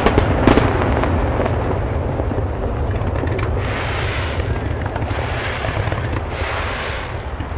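Fireworks display: sharp bangs of shells bursting in the first half-second, then a steady low rumble of distant bursts. In the second half there are three rushes of hiss as low fountain and waterline fireworks spray.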